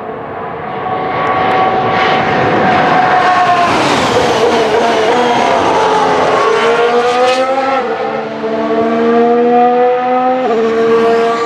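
2019 Formula 1 cars' 1.6-litre turbocharged V6 hybrid engines at high revs going past on track. The engine note rises, then falls in pitch as a car passes about four seconds in, and climbs again with stepped gear changes in the second half.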